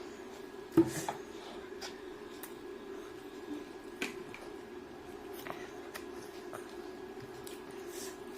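Close-up eating of fried chicken and rice: wet, squishy chewing and mouth sounds with scattered sharp clicks, the loudest about a second in and another about four seconds in, over a steady low hum.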